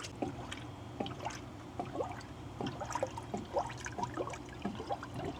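Engine coolant being poured into the empty cooling system of a Honda H22 engine, trickling and gurgling in many small irregular blips as it fills.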